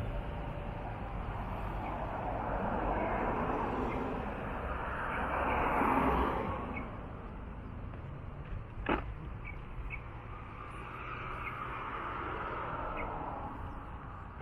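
Outdoor ambience: a rushing noise swells and fades twice, with a few short bird chirps and a single sharp click about nine seconds in.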